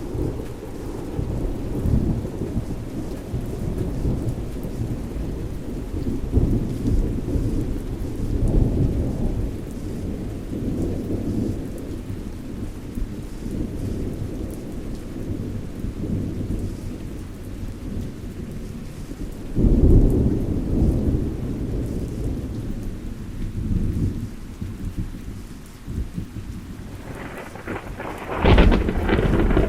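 Thunderstorm: steady rain with rolling thunder rumbling and swelling in waves, a loud peal about twenty seconds in and a sharper, closer crack of thunder near the end.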